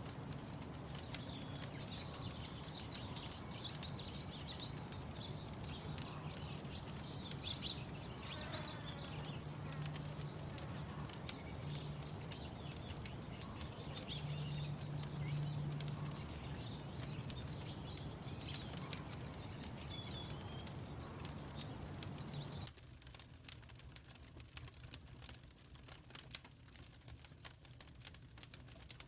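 Birds chirping and singing over the steady crackle and pops of a wood fire in a firepit, with a low steady hum underneath. About 23 seconds in, the birdsong and hum drop out abruptly, leaving mostly the fire's crackling.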